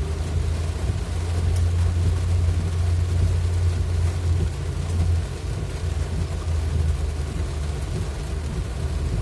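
A vehicle driving in heavy rain: a steady low rumble of road and engine noise under an even hiss of rain.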